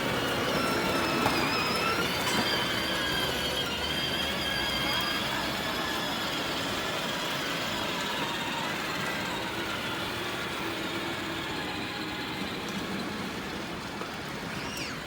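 Electric motors and gearboxes of battery-powered ride-on toy cars whining steadily as the cars drive, several high tones held together, easing off a little near the end.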